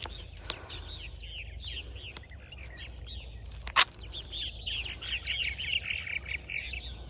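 A songbird calling in a fast run of repeated arched chirps, a few a second, pausing briefly near the middle. One sharp click sounds a little under four seconds in.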